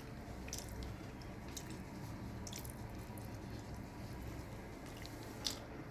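Soft, wet eating sounds of someone chewing and working food, a few faint clicks spaced about a second apart, over a steady low hum.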